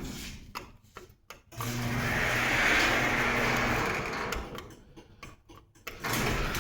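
Garage door opener motor running with a steady hum. It cuts out about half a second in, runs again for about three seconds, stops, and starts once more near the end.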